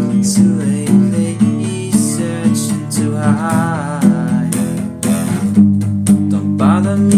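A song on strummed acoustic guitar, with a sung melody line coming in about three seconds in and again near the end.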